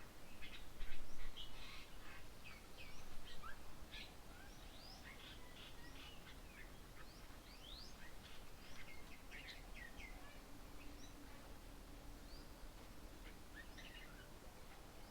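Several birds chirping and calling at once, a busy mix of short chirps and quick whistled notes, loudest in the first few seconds and thinning out after.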